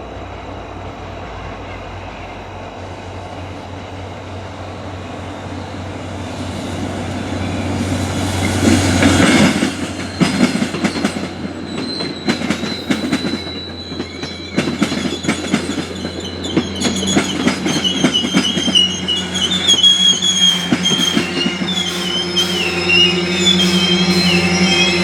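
A diesel-hauled passenger train passing close by. Its locomotive grows louder and is loudest about nine seconds in. Then the wheels click rapidly over rail joints as the cars go by, with wavering high squeals from the wheels in the second half.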